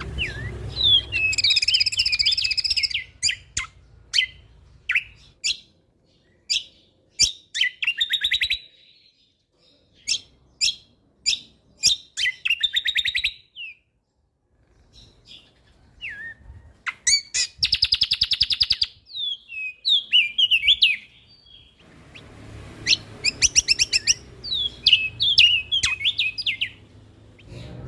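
A songbird sings a rapid, varied song of sharp chips, fast rattling trills and twittering notes, delivered in bursts with short pauses and a quiet gap about halfway through. A faint low rumble of background noise lies under the opening seconds and again near the end.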